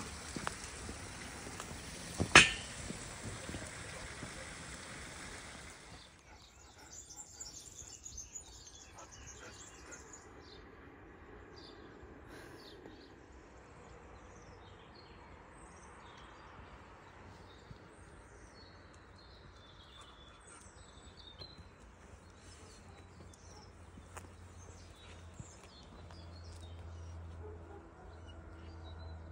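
Outdoor ambience with short bird chirps scattered through it. At the start there is a steady noise with one sharp, loud knock, then the background drops abruptly and the chirps come and go over a quieter hush.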